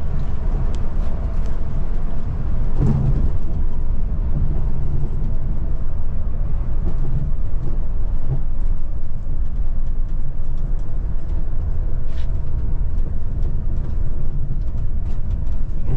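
Scania Metrolink multi-axle coach under way, heard from inside the cabin: a steady low rumble of engine and road noise, with a few light rattles and clicks.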